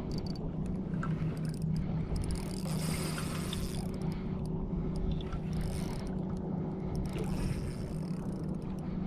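Steady low drone of a boat motor running, with intermittent washing of water.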